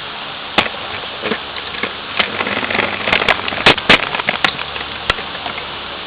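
Hard plastic toy parts clicking and knocking as a Transformers figure's sword accessories are handled: a scatter of sharp clicks, the two loudest close together a little past halfway.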